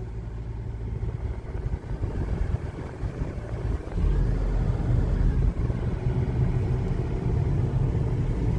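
Car driving along a highway, heard from inside the cabin: a steady low rumble of engine and tyres that gets louder about four seconds in.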